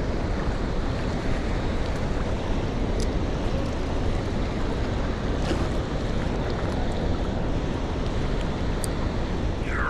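Steady wind rumbling on the microphone, heaviest in the low end, with water lapping at the shoreline.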